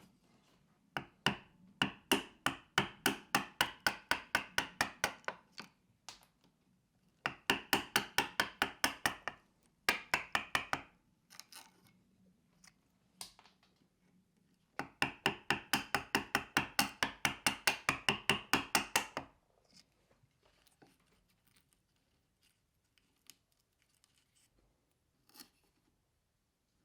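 Chisel being struck with a mallet to chop waste out of a wooden plane body: rapid sharp strikes, about four a second, in four runs with short pauses, then a few scattered taps near the end.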